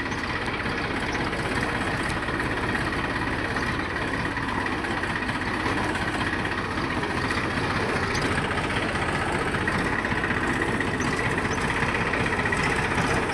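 Deutz-Fahr tractor's diesel engine running steadily, with a faint high whine held throughout.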